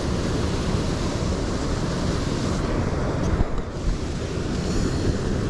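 Wind buffeting the microphone over the steady rush of a fast-flowing mountain stream.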